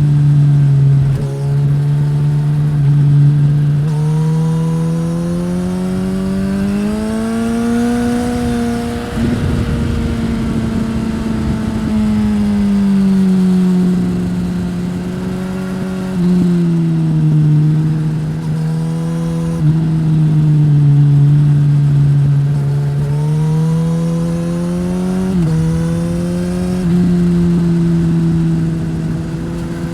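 2015 Suzuki GSX-S1000 inline-four through a Yoshimura R-11 slip-on exhaust, ridden on a winding road: the engine pitch climbs under acceleration, then falls slowly as the throttle eases. Several sudden steps in pitch later on are gear changes, with another pull up through the revs in between.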